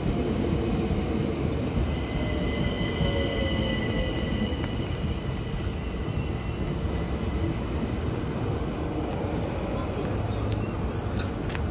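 Southeastern electric multiple unit running past the platform at speed: a steady, loud rumble and roar of wheels on rails, with a faint high squeal from the wheels about two to five seconds in.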